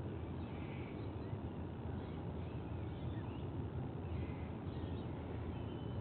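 A steady low rumble of outdoor background noise, with a few faint, short, high bird chirps and whistles scattered through it.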